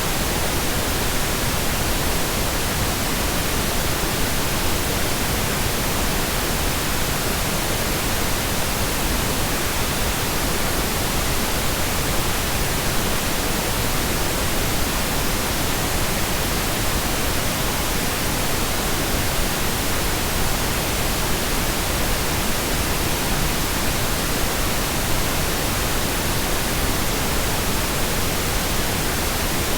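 Steady, unchanging pink noise: an even hiss across the whole range, fuller and softer than white noise.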